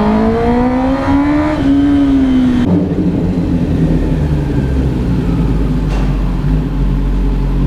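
2022 Kawasaki ZX10R's inline-four engine through an Arrow Indy Race exhaust, revving up in pitch as the bike accelerates, then dropping abruptly about two and a half seconds in and running on at a steady lower speed.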